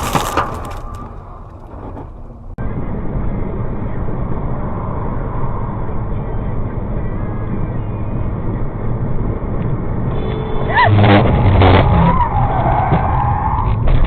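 Steady engine and road noise of a car on the road. About ten seconds in it grows louder, with knocks and a wavering high squeal.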